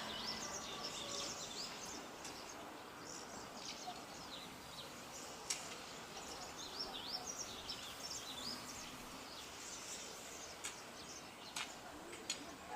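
Small birds chirping and twittering in quick, high, short calls over a steady outdoor background hiss, with a few faint sharp clicks.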